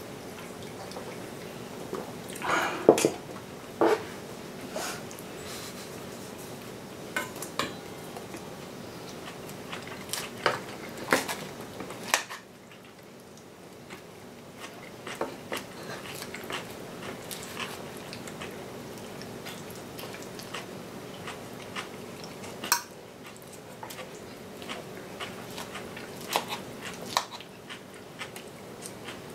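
Utensils clinking and knocking against dishes or a pot in scattered, irregular strikes, the loudest a few seconds in and around eleven seconds in.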